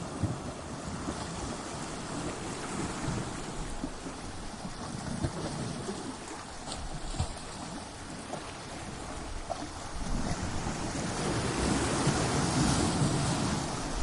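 Ocean waves breaking against rocks: a continuous wash of surf, swelling about ten seconds in as a larger wave crashes, loudest near the end.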